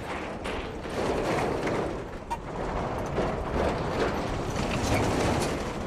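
Road train truck on the move: a steady, noisy running sound with scattered short knocks.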